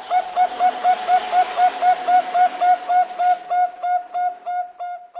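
Zebra dove (perkutut Bangkok) calling: a rapid run of short, identical cooing notes, about four to five a second, slowing toward the end.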